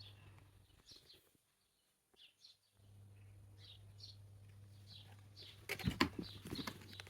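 Small birds chirping repeatedly over a steady low hum. In the last second or so there are several loud knocks and clatter, which are the loudest sounds.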